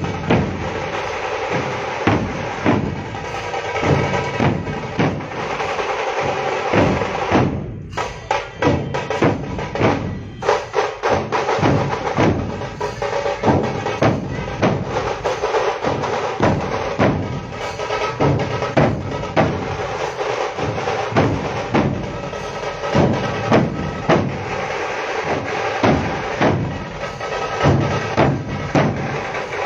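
Music driven by drums: a dense, steady rhythm of drum strikes with a brief break about eight seconds in.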